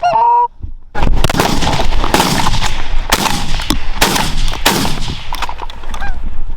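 A goose honk, then from about a second in a rapid volley of shotgun shots, five or six in quick succession, fired at geese coming into the decoys, with geese honking through it.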